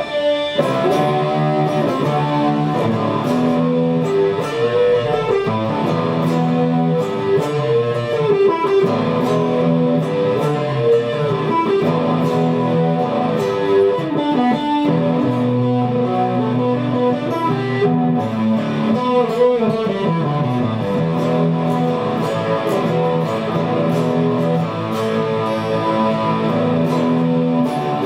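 Guitar music: sustained plucked guitar notes, some gliding up and down in pitch.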